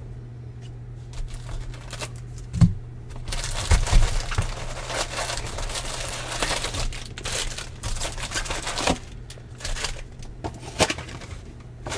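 Baseball card pack wrapper being torn open and crinkled, with a few sharp clicks and then several seconds of dense crackling.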